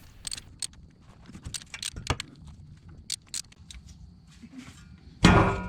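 Metal hand tools clicking and clinking as the differential fill plug is loosened, then a loud metallic clank about five seconds in that rings on.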